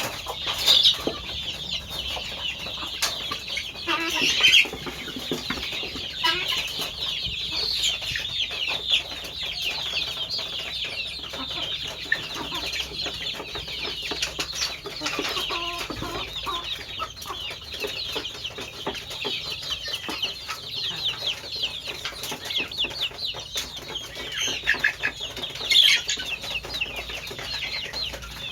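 A flock of chickens clucking and calling: a constant chatter of many overlapping short, high calls, with a few louder calls standing out now and then.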